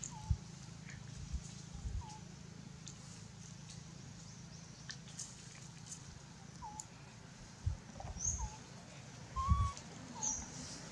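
Birdsong in the forest: a short, hooked chirp repeats about once a second, with a few higher, thinner chirps mixed in. A few soft low thumps come in, most of them in the second half.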